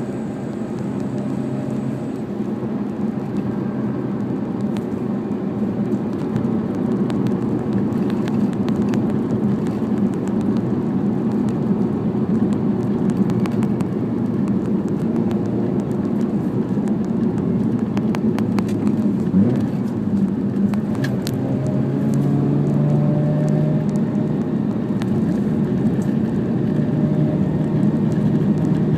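Mazda RX-8's two-rotor rotary engine running through an RE Amemiya New Ultimate Silent aftermarket muffler, heard from inside the cabin while driving, with road noise. The drone is steady, its pitch shifting a little, and settles into a more even held tone in the last third.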